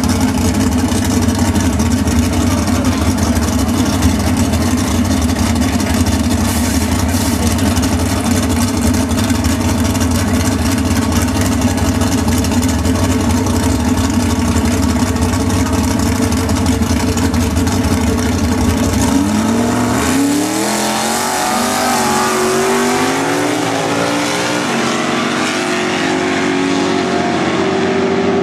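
Two Holden drag cars' engines running loud and steady at the start line. About two-thirds of the way in they launch, each engine rising in pitch and dropping back at every gear change, and the sound fades as they pull away down the strip.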